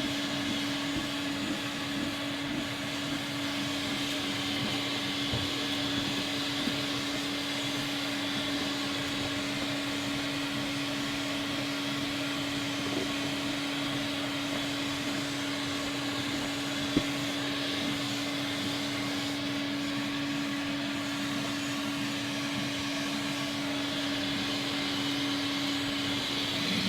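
Homebuilt Fairfax vacuum cleaner's motor running steadily as it sucks at the carpet: a constant hum with a rushing of air, broken once by a brief sharp click about two-thirds of the way through.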